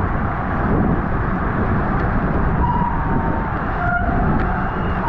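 Steady rushing wind noise on the microphone of a bicycle-mounted camera at race speed. A brief steady tone, like a distant whistle or siren, sounds a little past halfway.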